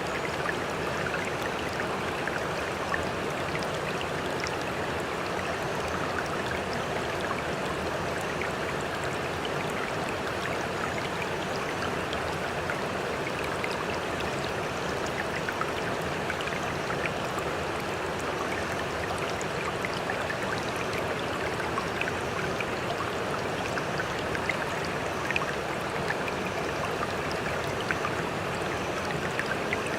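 Sea water sloshing and trickling steadily, with scattered small splashes and drips and no surge of breaking waves.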